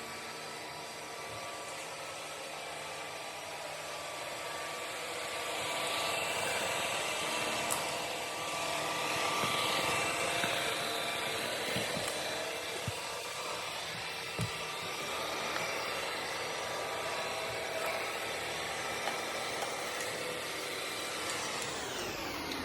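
Ecovacs Deebot N8+ robot vacuum cleaning with its sweeper brushes: a steady motor and fan whir that swells louder for a few seconds about a quarter of the way in and eases back, with a few light knocks.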